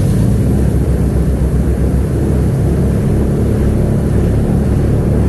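Airboat's engine and big rear air propeller running loud and steady, a low rumble, as the boat loops around.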